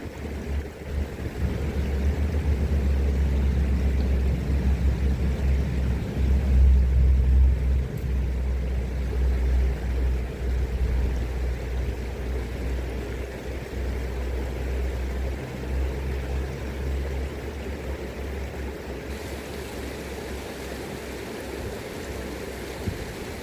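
Flowing river water with wind buffeting the microphone, a gusty low rumble that is strongest in the first half and eases off toward the end.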